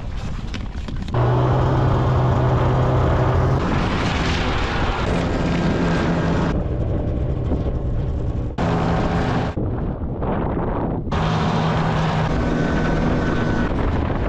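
An engine running steadily in several spliced stretches, its pitch shifting between them, with abrupt cuts between the stretches.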